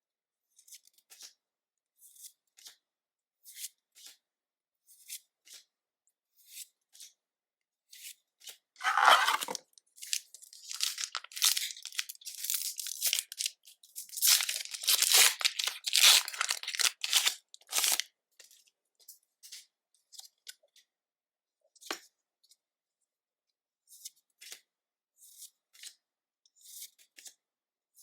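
Pokémon card booster pack being torn open: a sharp rip about nine seconds in, then about nine seconds of foil wrapper crinkling and tearing. Light clicks of cards being handled come before and after.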